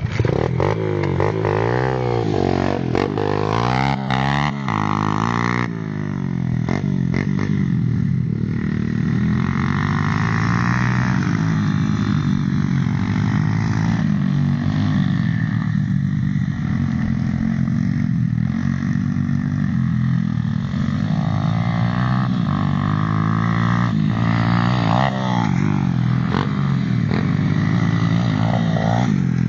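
Small dirt-bike engines revving, the pitch rising and falling quickly several times in the first few seconds, then running on with a steadier pitch that swells and eases as the throttle changes.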